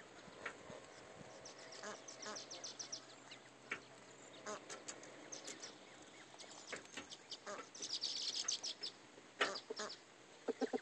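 Newly hatched ducklings peeping: quick runs of short, high calls, busiest about eight seconds in.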